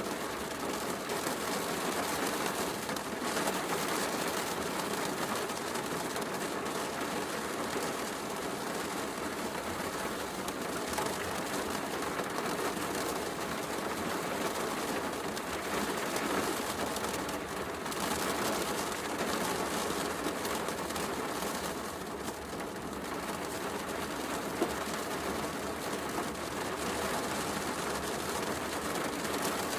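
Heavy rain falling steadily, mixed with a wood fire crackling, with one sharper pop about 25 seconds in.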